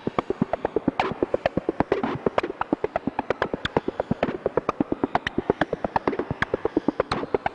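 Korg Volca Modular synthesizer playing a fast, continuous stream of short clicky blips, about eight to ten a second, their pitches jumping from one blip to the next.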